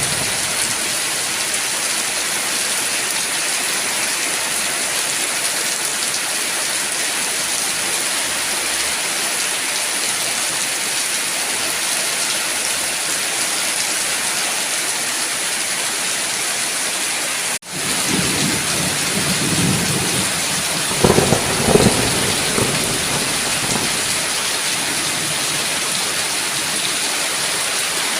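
Heavy rain falling in a steady hiss. It drops out for an instant a little past halfway, then a low roll of thunder rumbles for several seconds, peaking about three-quarters of the way through.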